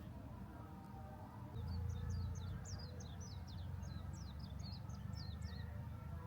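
A songbird singing a fast run of high, sweeping notes starting about a second and a half in and lasting about four seconds, over a low steady rumble.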